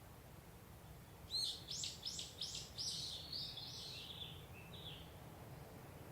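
Japanese bush warbler (uguisu) calling: a quick run of five or six sharp, high repeated notes starting about a second in, trailing off into a softer twitter. A low, steady background rumble runs underneath.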